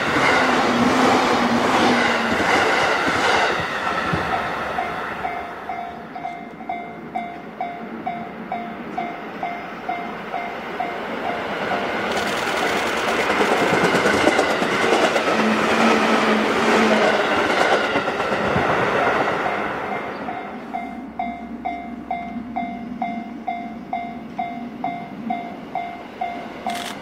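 Electric commuter trains passing on the line: an E233 series EMU rushing by close at the start, then a 205 series EMU running past in the middle. Between the passes a railway crossing warning bell dings steadily at about two to three strikes a second.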